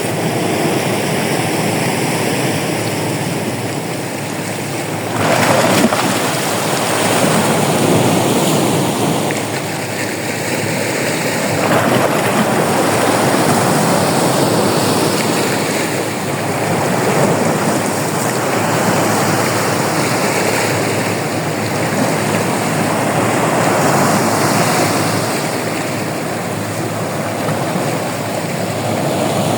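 Sea surf on a beach: waves breaking and washing in, swelling louder every five to seven seconds.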